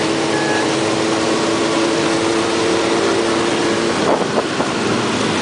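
Motorcycles riding in a group: loud engine and wind noise. A steady two-note tone runs over it and cuts off about four seconds in.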